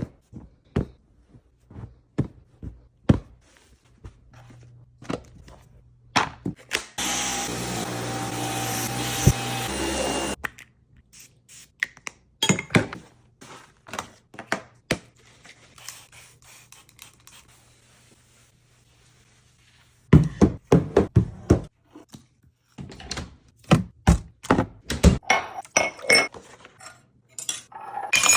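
Knocks and clatter of household items being picked up and set down on hard surfaces while cleaning a kitchen. A steady rushing sound runs for about three seconds near the start, and a busy run of clatter fills the last third.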